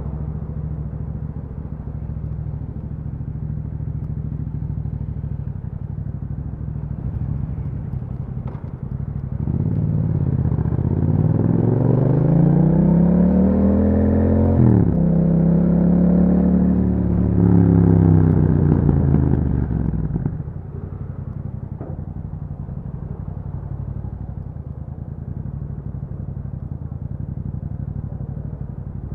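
A 2021 Yamaha MT-07's parallel-twin engine running through an Akrapovic exhaust, first at low, steady revs. About a third of the way in it accelerates and gets louder, its pitch climbing, dropping sharply at a gear change about halfway through, then climbing again. About two-thirds in it falls away and settles back to a low, steady run.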